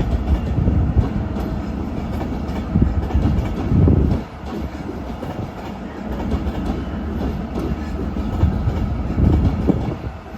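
A train running through a station: a steady low rumble of wheels on track, with heavier clatters as the wheels cross rail joints and points, loudest about four seconds in and again near the end.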